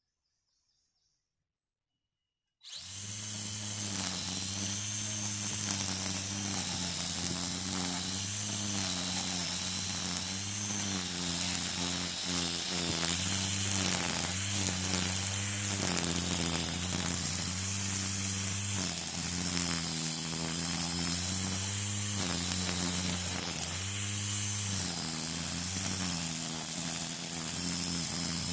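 Near silence for a couple of seconds, then a string trimmer (weed eater) starts up suddenly and runs steadily, its engine pitch rising and falling as the throttle is worked while cutting.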